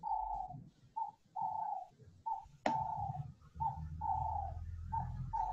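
A bird calling over and over in a two-note pattern, a short note then a longer one, repeating about every 1.3 seconds. A single sharp click about two and a half seconds in.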